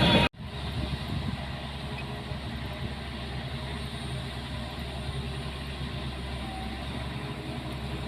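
A louder sound cuts off abruptly a third of a second in, then a heavy diesel engine of an earth-moving machine runs steadily as a low, even rumble.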